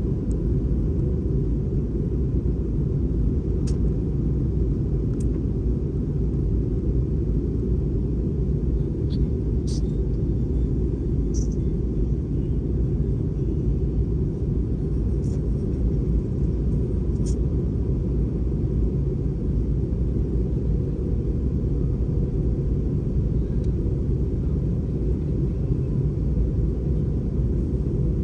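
Steady cabin rumble of an Airbus A320 airliner in flight: engine and airflow noise with no change in level. A few faint, brief high clicks sound about midway.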